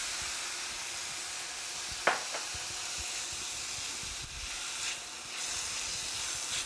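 Freshly added diced tomatoes sizzling with onion and sweet pepper in a hot stainless steel pan, stirred with a silicone spatula. There is a steady frying hiss, with one brief sharp sound about two seconds in.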